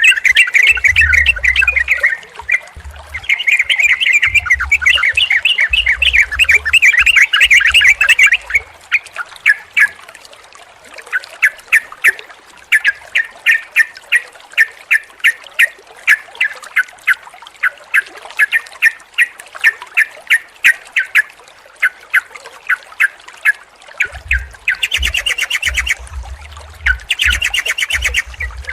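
Yellow-vented bulbul calling. It starts with busy, loud chattering, then gives a long run of short sharp notes, about two to three a second, before loud chattering returns near the end. Low rumbling bumps sit under the chattering parts.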